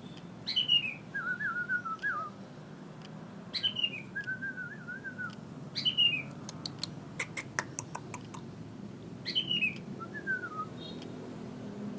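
Songbird singing the same short phrase four times, about three seconds apart: a sharp upward whistle, a quick falling warble, then a lower wavering trill. A quick run of sharp clicks comes in the middle.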